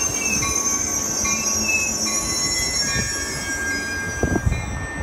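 Caltrain passenger train rolling through, a steady rumble with several high, shifting squeals from its steel wheels.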